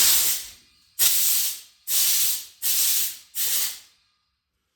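Compressed-air blow gun fired in five short bursts, each a hiss of about half a second, blowing aluminium drilling and tapping shavings out of freshly tapped holes in an engine block.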